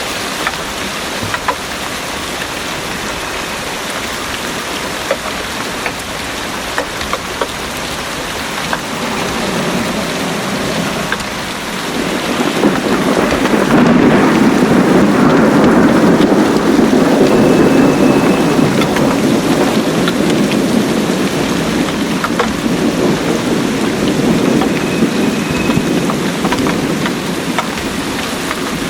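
Heavy rain pouring steadily, with individual drops ticking through it. A low rolling thunder rumble swells about twelve seconds in and fades away over roughly ten seconds.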